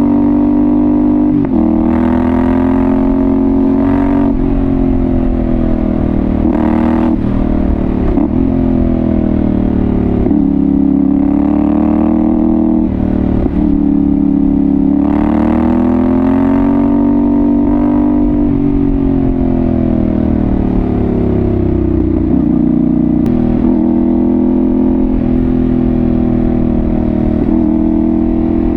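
2022 Yamaha Ténéré 700's parallel-twin engine through an aftermarket Dominator GP1 exhaust, under way. The pitch rises and falls repeatedly as the bike accelerates and eases off, with several short breaks where it shifts gear.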